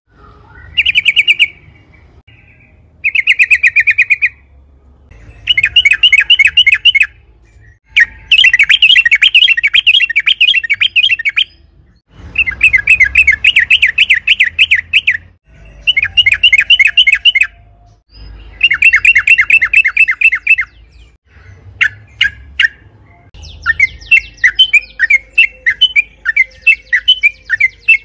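Yellow-vented bulbul (trucukan) singing its rapid song: repeated bursts of fast chattering notes, each lasting one to three seconds with short pauses between them, and a longer unbroken run near the end.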